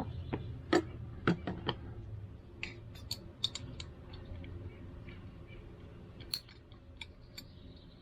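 Scattered light clicks and taps of small carburetor parts, the float, needle and hinge pin, being handled and fitted back into the carburetor body by hand, with the clicks thinning out toward the end.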